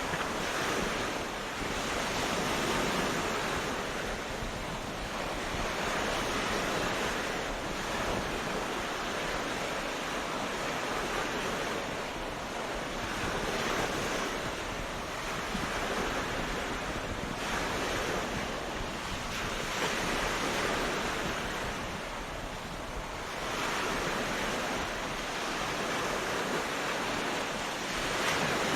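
Ocean surf on a beach: a steady wash of waves that swells and eases every few seconds.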